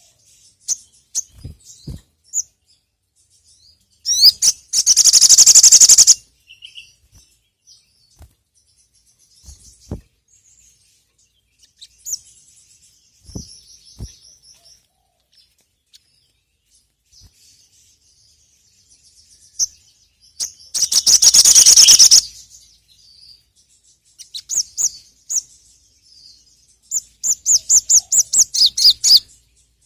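Sogon (sogok ontong) songbird singing: scattered high chirps, with two long, loud, rapid trills at about four and twenty-one seconds in, and a fast run of repeated chirps near the end. A few faint knocks in between.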